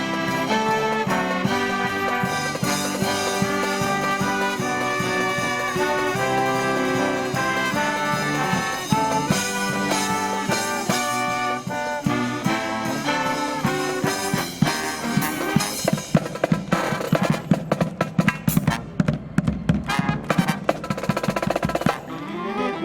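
Marching brass band playing a Christmas medley, trumpets and trombones over drums. In the last several seconds the music turns to a run of quick, sharp, repeated strokes, then breaks off just before the end.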